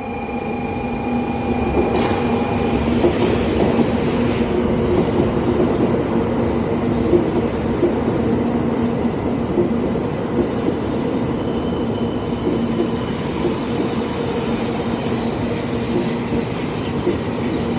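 Shinkansen train, a 700 series Rail Star, pulling into the station: a loud steady rushing and rumble of the train running past the platform, with scattered clicks. The noise swells about two seconds in and then holds.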